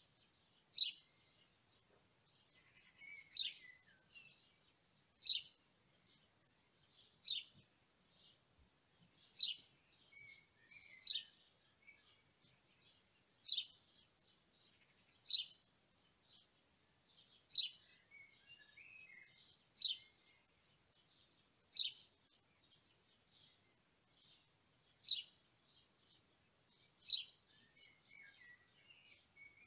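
A small bird calling: a short, sharp, high chirp repeated about every two seconds, with softer twittering between the calls.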